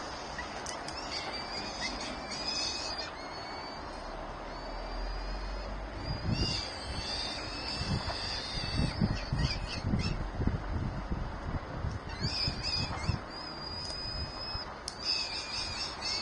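Birds at a nest chirping in repeated short bouts of high-pitched calls, with a stretch of low knocks and rustling in the middle.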